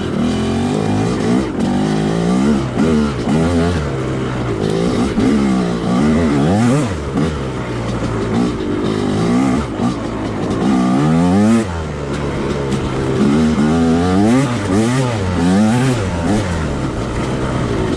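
Two-stroke dirt bike engine revving, its pitch rising and falling again and again as the throttle is opened and closed.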